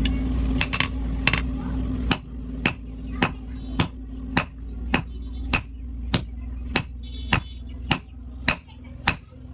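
Hand hammer striking iron on an anvil while forging tongs, in a steady rhythm of a little under two blows a second, some blows leaving a short ring. A steady mechanical hum runs under the first two seconds and stops.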